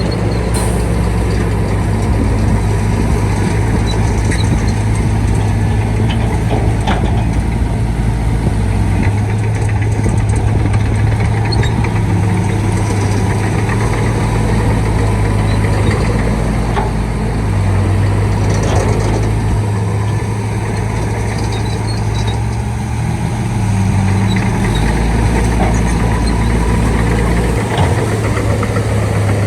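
Shantui D95 bulldozer's diesel engine running steadily under working load, its low drone shifting slightly in pitch and strength every few seconds, with a few short knocks.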